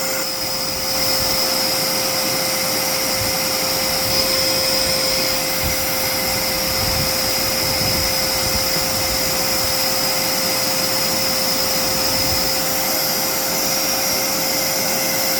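Dirt Devil Powermax Pet vacuum cleaner running steadily, its motor giving a constant whine as it sucks up a liquid.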